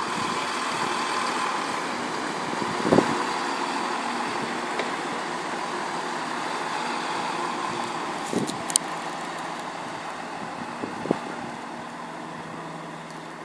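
Passenger multiple-unit train running along the platform line: a steady mechanical rumble and hum that slowly fades, with a few sharp knocks.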